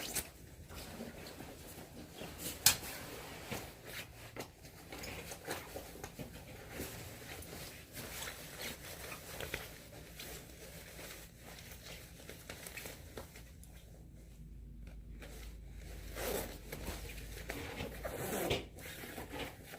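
Rustling of clothing and scattered handling clicks and rubs, with one sharp knock about two and a half seconds in: someone dressing to go out into the snow.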